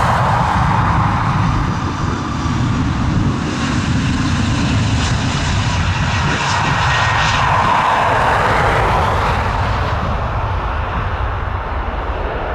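Airliner's engines running loud as it passes close by, easing off slightly near the end.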